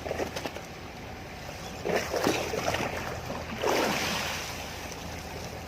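Fishing boat's engine running steadily with water washing along the hull in two surges, about two and about four seconds in.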